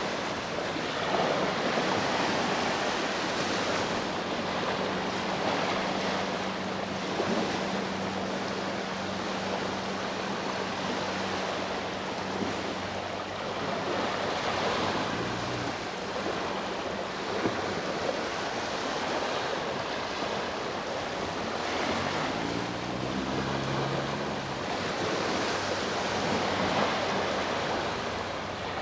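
Ocean waves breaking and washing up the shore, swelling and falling back every few seconds.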